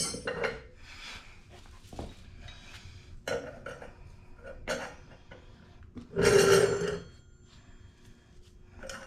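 Small metal bike parts clinking and scraping as they are handled. A short throaty vocal sound, like a grunt or burp, comes about six seconds in and is the loudest thing.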